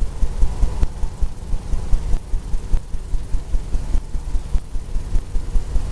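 Painting strokes worked rapidly back and forth across a stretched oil-painting canvas, the canvas drumming in low, even thumps about four or five times a second.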